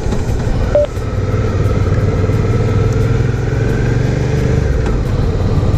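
Motorcycle engine running at a steady road speed while riding, with wind and road noise on the microphone.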